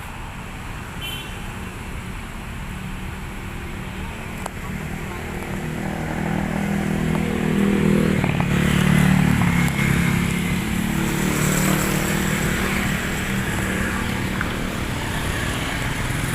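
Slow, congested road traffic: motorcycle and car engines running in a jam, with one engine passing close and loudest about halfway through before fading back into the steady traffic noise.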